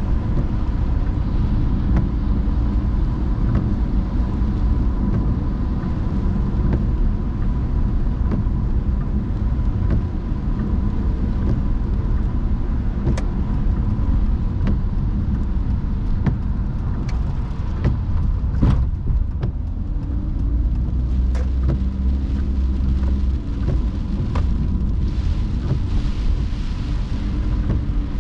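Car driving on wet roads in the rain: a steady low rumble of engine and tyres, with scattered sharp clicks. A hiss swells near the end.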